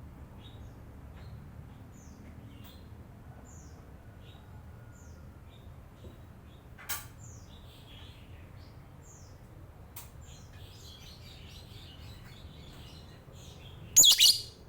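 Lovebirds chirping: a steady string of short, high, downward-sliding chirps, with a much louder shrill burst near the end.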